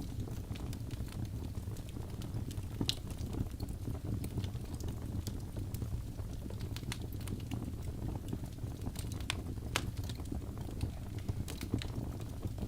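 Log fire burning in a fireplace: a steady low rumble of flames with irregular sharp crackles and pops from the wood.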